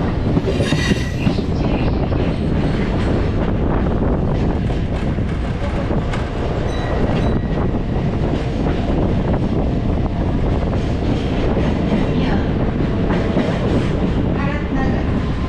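Steady running noise inside a moving MMTS electric local train carriage: wheels on the track, with faint rail clicks.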